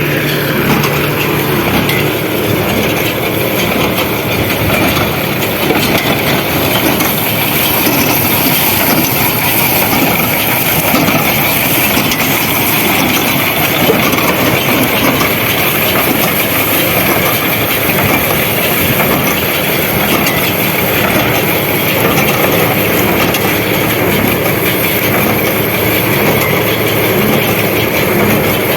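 Farm tractor running with its hay-making machinery, a loud, steady mechanical clatter throughout.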